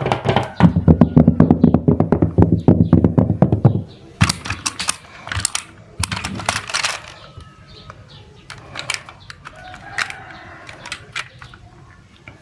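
Clattering of small hard objects: a dense, rapid run of clicks for about four seconds, then a few louder scraping bursts and scattered clicks.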